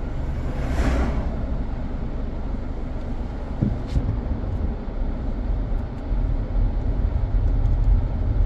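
Steady low rumble of car road noise, with another vehicle rushing past about a second in. The rumble grows louder in the second half.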